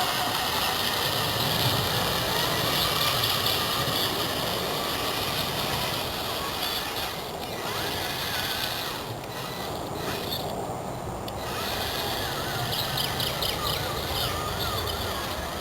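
Homemade RC trial truck's electric motor and gearbox whining as it drives, with short letups about halfway through and quick throttle pulses near the end.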